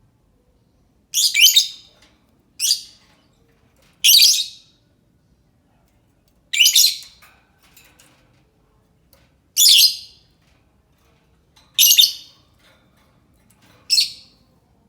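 Lovebird giving shrill, high-pitched calls in seven short bursts, each under a second long, spaced one to three seconds apart.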